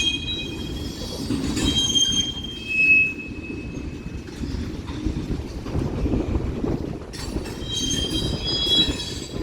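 Freight train cars rolling past with a steady low rumble, their wheels squealing in thin high tones through the first three seconds and again near the end.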